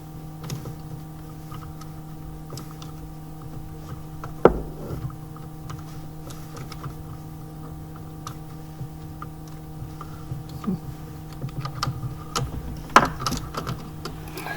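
Scattered clicks and knocks of hand tools and parts being handled during work on a car engine, over a steady electrical hum. There is a sharp knock about four seconds in, another near the end, and a run of smaller clicks just before it.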